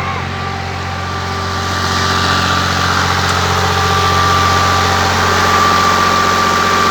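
An old Fiat tractor's diesel engine runs steadily while driving a turbine pump, with a thin steady whine over the engine note. It gets somewhat louder about two seconds in, then holds.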